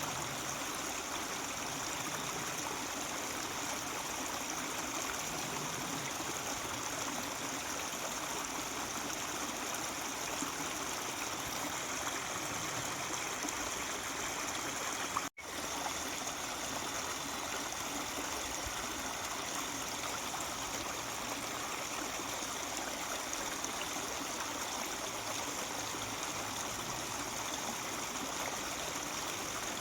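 Mountain stream babbling steadily over rocks, with a split-second break in the sound about halfway through.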